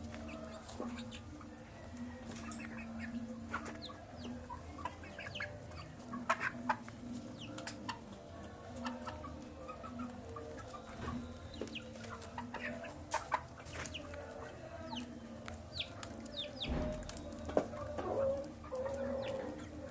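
Chickens clucking, with short high chirps from young chicks and sharp taps scattered throughout, typical of birds pecking at feed.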